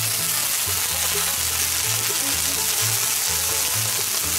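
Bacon-wrapped fish sticks sizzling on a hot steel fire plate, a steady crackling hiss of fat frying. Background music with a low, stepping bass line runs underneath.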